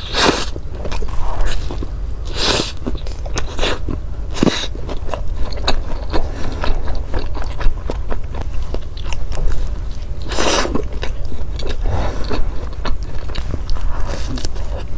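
Close-miked eating: a person biting and chewing food, with wet clicks of the mouth and several louder crunching bites.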